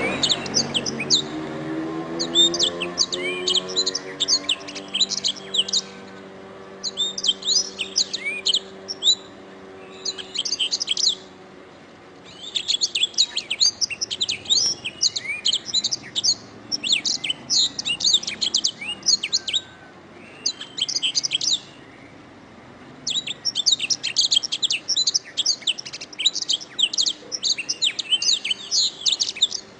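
Domestic canary singing: rapid, high trilling phrases in bouts of a few seconds, broken by short pauses. A low hum fades out during the first few seconds.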